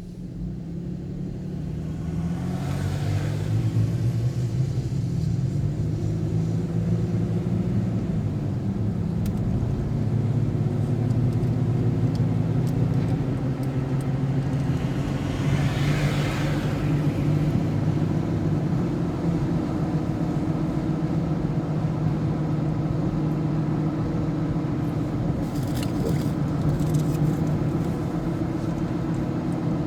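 Vehicle engine running steadily with road noise while driving, its hum shifting slightly in pitch. There are two brief rushing swells, about 3 and 16 seconds in.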